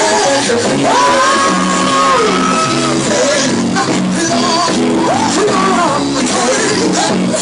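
Live gospel music: a strong voice sings and shouts long held notes that slide up and down over steady instrumental chords.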